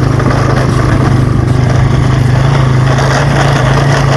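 Small motorcycle engine running steadily under way, a constant low hum at an even speed.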